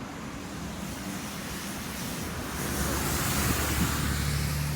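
A motor vehicle passing by: road noise that swells about two and a half seconds in, with a low engine hum under it.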